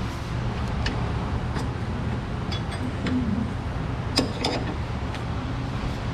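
Metal tools and suspension parts clinking and tapping now and then during work on the control arms. The loudest clink comes about four seconds in, over a steady low hum.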